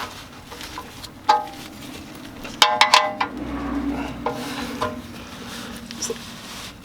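A wrench on the oil drain plug clinking against metal as the plug is tightened: a sharp clink about a second in, a quick cluster of louder clinks with brief ringing near the middle, and a few lighter clicks after.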